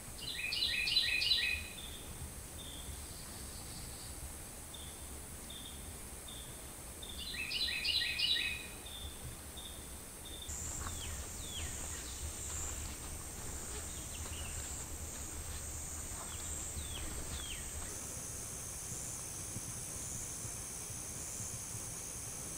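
A bird calls twice, seven seconds apart, each call a quick run of four notes, with softer short notes repeated in between. From about ten seconds in, insects buzz steadily at a high pitch, and thin falling chirps come and go over it.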